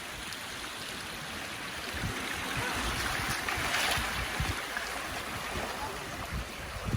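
Sea surf washing against rocks: a steady hiss of water that swells as a wave surges in about halfway through, then eases, with gusts rumbling underneath.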